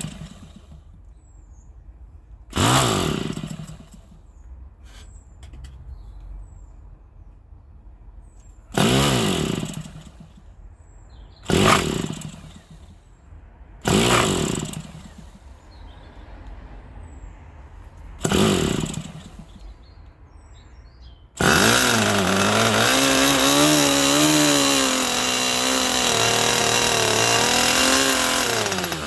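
Irvine 61 two-stroke glow engine spun over by an electric starter in several short bursts that wind down each time. About three quarters of the way in it catches and keeps running loud and high-pitched, its pitch wavering.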